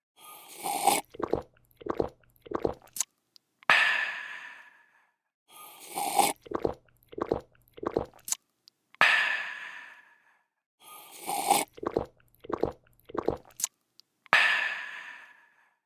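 A looped drinking sound effect that goes through its cycle about three times: a slurp, a few quick gulps, then a loud breathy 'aah' of refreshment that fades over about a second and a half.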